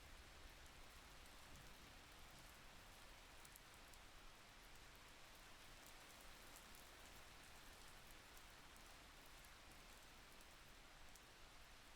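Faint, steady rain with scattered light drop ticks.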